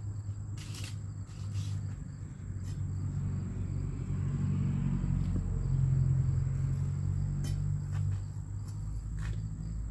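A motor vehicle's engine rumbles, swelling to its loudest about six seconds in and then easing off, like a car or truck passing. A few short knocks are heard over it.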